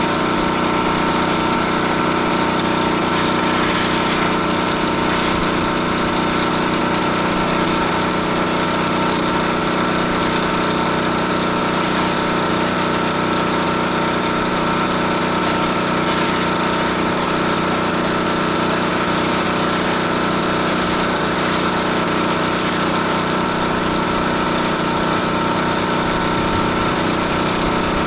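Gas-engine pressure washer running steadily at constant speed, with no change in pitch.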